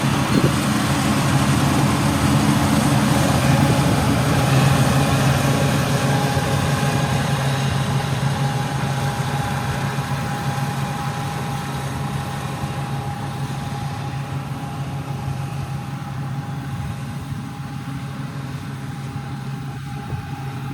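Heavy engine of farm machinery running steadily with a low hum, gradually getting quieter.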